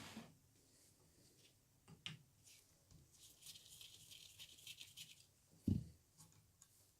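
Faint workshop handling of small metal parts while a miniature drill press is dismantled: a click, a stretch of light scratching and rattling, then one dull knock near the end.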